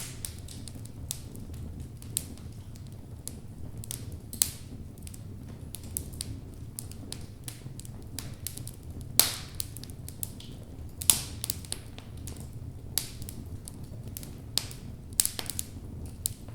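Wood logs burning in a fireplace: a steady low rumble of flame with irregular sharp crackles and pops, two louder pops about nine and eleven seconds in.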